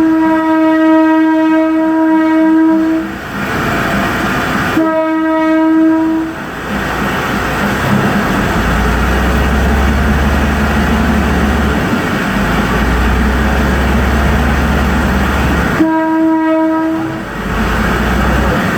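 Train horn sounding three blasts, a long one at the start and two shorter ones about five and sixteen seconds in, with the train's steady rumbling running noise and a low drone between the blasts.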